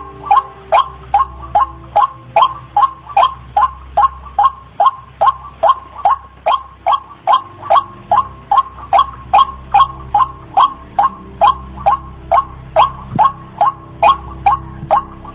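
White-breasted waterhen (ruak-ruak) calling in a fast, monotonous series of short, sharp notes, about two and a half a second, over a faint low hum.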